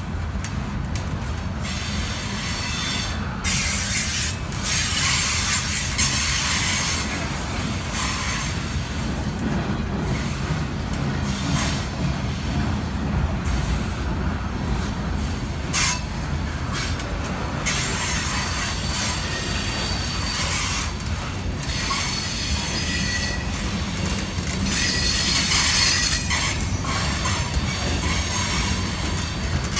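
Freight train cars rolling past close by, a steady rumble of steel wheels on rail with a hissing rush over it. Faint high wheel squeal comes and goes in the second half.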